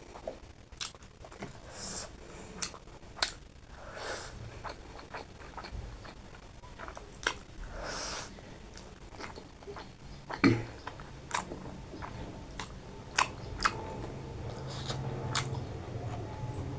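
A person chewing and biting food close to the microphone, with many sharp wet mouth clicks and a few longer drawn-out mouth sounds. A low steady hum comes in about ten seconds in.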